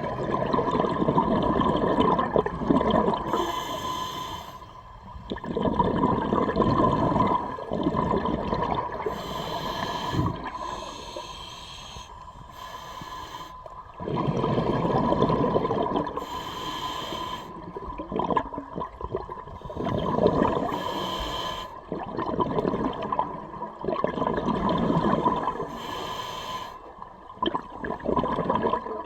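Scuba diver breathing underwater through a regulator: a short hiss on each inhale, then a longer rush of exhaled bubbles, one breath every few seconds. A faint steady whine runs underneath.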